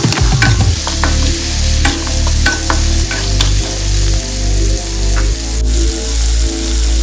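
Squash cubes sizzling as they fry in a stainless steel pan, with a wooden spatula scraping and tapping against the pan as they are stirred; the scrapes thin out after about five seconds and the sizzle carries on.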